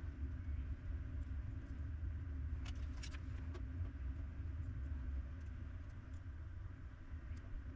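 Steady low hum with a few light clicks about three seconds in.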